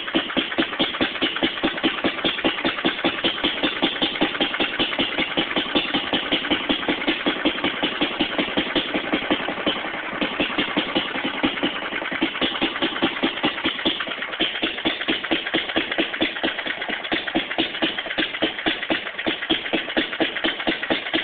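Fairbanks-Morse Z Style D 1½ hp hit-and-miss stationary engine running, throttled back, with regular exhaust beats about four a second. The beats soften briefly about ten seconds in.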